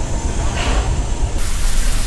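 Steam locomotive on a run: a steady low rumble, with a loud even hiss that cuts in abruptly about one and a half seconds in.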